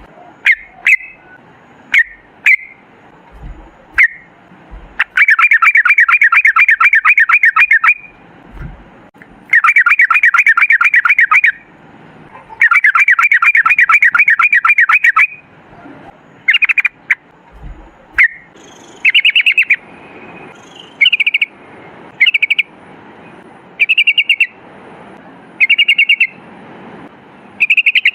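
Yellow-vented bulbul (trucukan) singing. Short sharp calls come first, then three long rapid trills of bubbly repeated notes, each lasting two to three seconds. After that, short chirps come about every second and a half.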